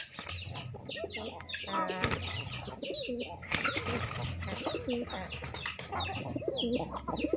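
Pigeons cooing and chickens clucking at feeding time, over a constant run of short, high chirps.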